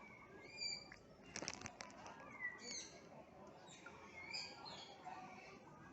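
Faint chirps and short high whistles from several aviary birds, some sliding down in pitch, with a quick cluster of sharp clicks about one and a half seconds in.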